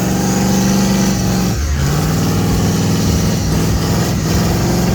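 Car engine held at high revs during a burnout, its pitch steady, then dropping sharply about one and a half seconds in and holding lower, with brief dips near the end.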